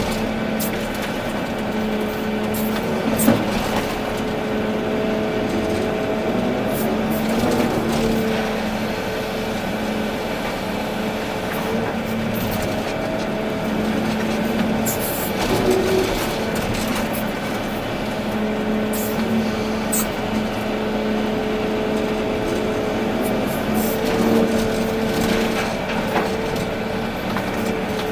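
Volvo EC380D excavator working, its diesel engine running steadily with a hydraulic hum that comes and goes as the machine is operated, and occasional short clicks and knocks.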